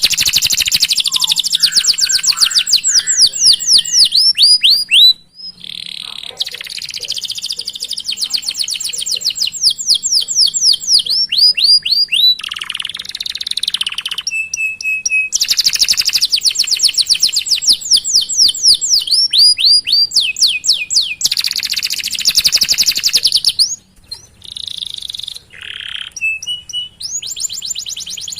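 Domestic canary singing long rolling phrases of rapid repeated chirps, high-pitched and sweeping, broken by short pauses and a few brief steady whistled notes.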